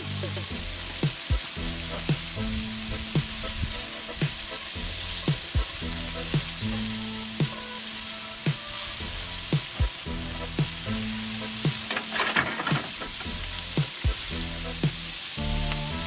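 Food sizzling and frying hard in a hot pan while it is stirred, with sharp strokes about once a second. Background music with held low notes plays under it.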